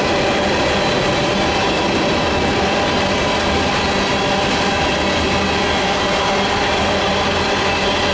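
Freight train of open-top hopper cars rolling steadily across a steel girder bridge: a loud, even noise of wheels on rail with several faint steady high tones through it.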